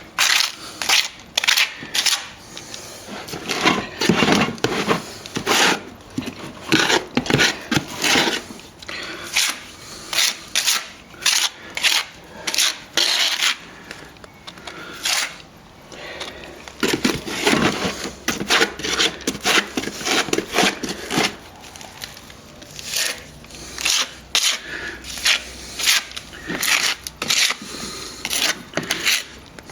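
Steel plastering tools scraping and clacking in quick, irregular strokes as a sand-and-stopping-plaster mix is worked into a wall crack.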